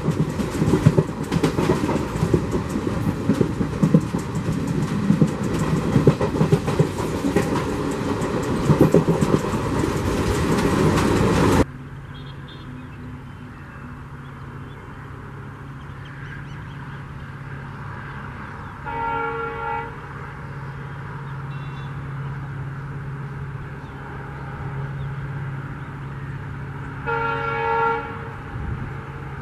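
Passenger train running at speed, heard from an open coach doorway: a loud rolling rumble with wheels clacking over rail joints, which cuts off abruptly about twelve seconds in. After that comes a quieter steady low hum, and an approaching train's horn sounds twice, each blast about a second long, the second near the end.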